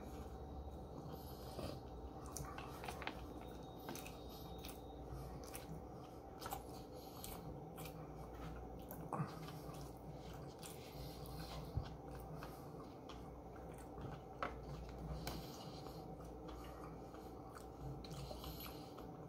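Quiet chewing of sushi, with scattered light clicks and taps as wooden chopsticks pick food from a plastic takeout tray.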